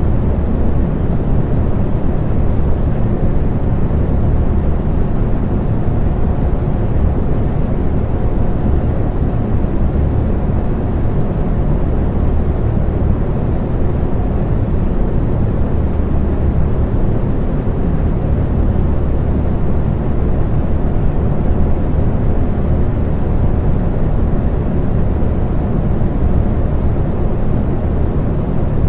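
Electric fan running steadily: a loud, even, low whooshing hum with a faint steady tone in it.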